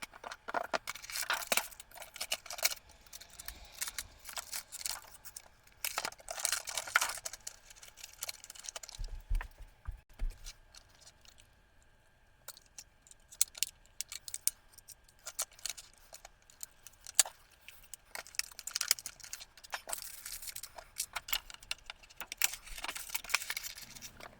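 Rustling, clicking and scraping of plastic and card packaging as a model train is packed into its manufacturer's box. The handling comes in spells, with a brief quiet gap near the middle.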